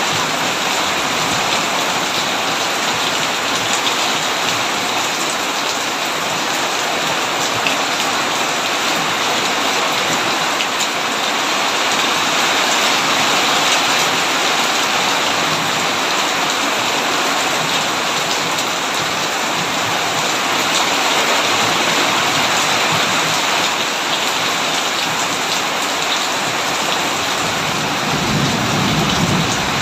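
Heavy rain falling steadily on a tin roof, with a short low rumble near the end.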